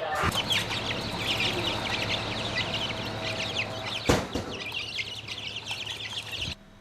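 A crowd of chicks peeping, many short falling high calls overlapping. A single sharp knock about four seconds in, and the sound cuts off abruptly near the end.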